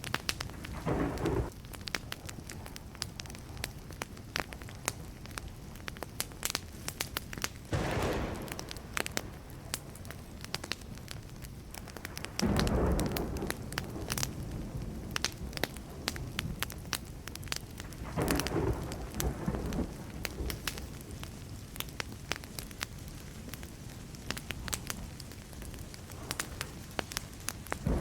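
Burning wood fire crackling and popping in dense sharp snaps. Low rumbles of distant thunder swell in about every five or six seconds, the strongest about twelve seconds in.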